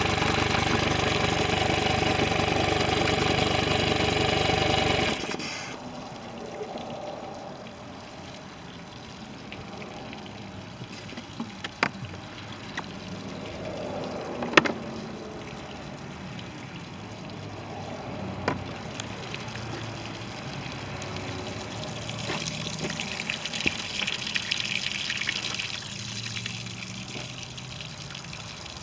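Mercury 60 hp four-stroke outboard running steadily, with water splashing, then cutting off abruptly about five seconds in. After that, a much quieter steady wash with a few sharp clicks.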